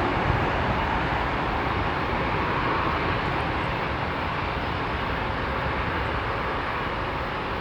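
Jet engine noise from an Airbus A340-600 with four Rolls-Royce Trent 500 engines departing runway 18 West: a steady rumble that slowly fades as it moves away.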